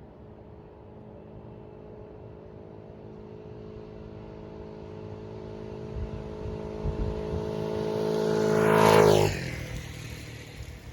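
50cc GY6 scooter engine with an oversized 34 mm racing carburetor running at speed toward and past, getting steadily louder. About nine seconds in its pitch drops sharply as it goes by, and it fades away.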